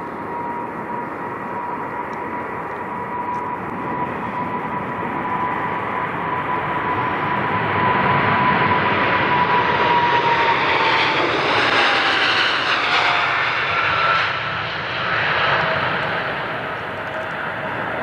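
Jet airliner passing by, its engine roar building to a peak about two thirds of the way in and then easing off. A steady engine whine drops in pitch as the aircraft goes past.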